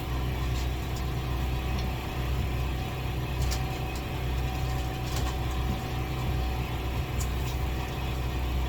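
An engine running steadily at idle, a constant low hum, with a few faint clicks.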